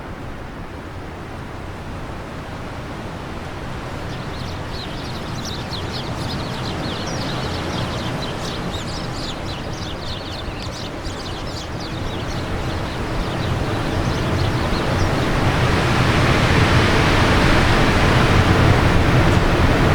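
Wind blowing steadily, swelling louder over the second half, while small birds chirp in quick runs of high notes from a few seconds in until about three quarters through.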